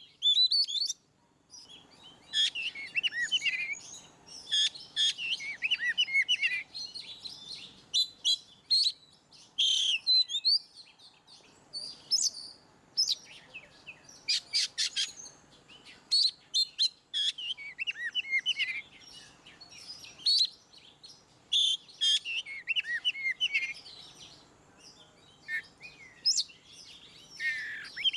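Oriental magpie-robin (kacer) singing a loud, full song: bursts of varied whistles, chirps and quick sweeping notes in phrases broken by short pauses.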